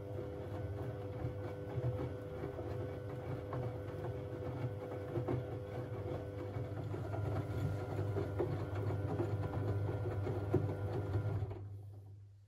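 Siemens Siwamat 6143 washing machine turning its drum: a steady motor hum with the laundry tumbling and clicking inside. Near the end the motor winds down to a stop.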